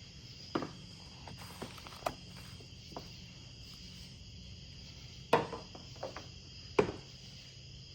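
A few sharp knocks and clicks, the loudest about five and a half and seven seconds in, over a steady faint high hum.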